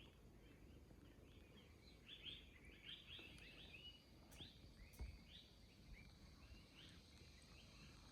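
Faint bird chirping: many short, high calls with quick pitch sweeps, coming thickest from about two to four seconds in.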